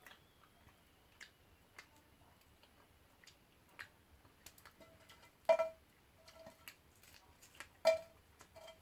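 Firewood crackling in an agungi fire: scattered small irregular ticks, with two louder pops, one about halfway through and one near the end.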